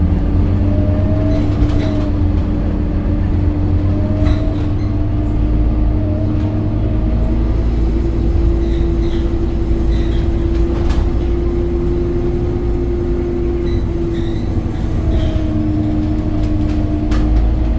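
Scania K270UB city bus's five-cylinder diesel running under way, a deep rumble with a steady engine note that rises a little about eight seconds in and eases back near the end, with scattered short rattles.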